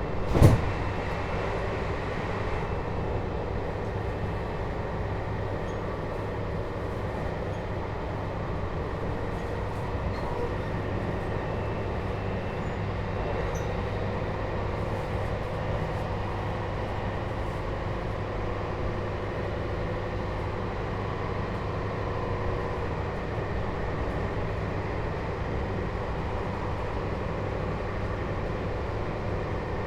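Running noise inside a JR Hokkaido 721-series EMU motor car with a Toshiba GTO inverter, travelling at a steady speed: a steady rumble of wheels on rail with a faint steady hum. One sharp knock about half a second in.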